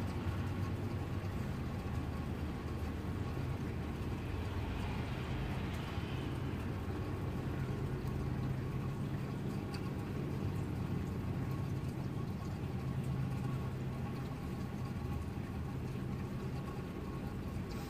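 Steady rain hiss over a low, even mechanical hum, with a soft swell in the hiss about five seconds in.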